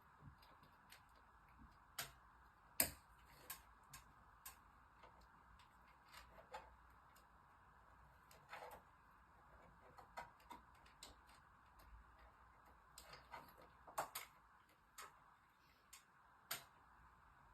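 Faint, irregular light clicks and taps, a dozen or more, spaced unevenly, over a steady low hiss; one sharper click about three seconds in and a cluster near fourteen seconds.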